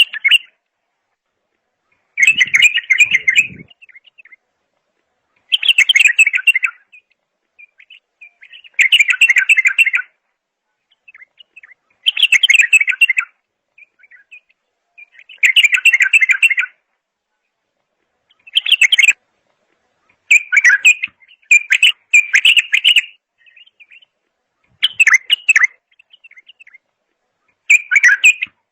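A songbird singing short, rapid phrases of about a second each, repeated roughly every three seconds with pauses between; the later phrases come in shorter, choppier pieces.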